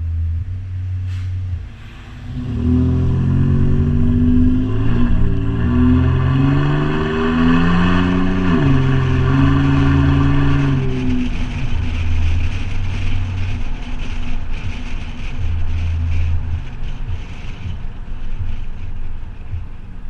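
Toyota 4Runner engine running through a Flowmaster 40 Series exhaust. It picks up under throttle a couple of seconds in, its drone climbing in pitch, drops once in pitch about halfway, then eases back to a low steady rumble.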